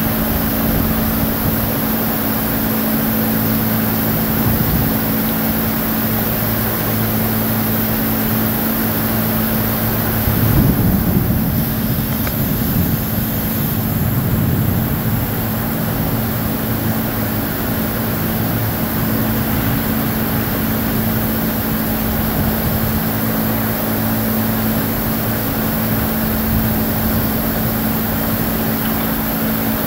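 Heavy thunderstorm rain pouring steadily, over a steady low machine hum. About ten seconds in, a louder low rumble swells for a second or two and fades.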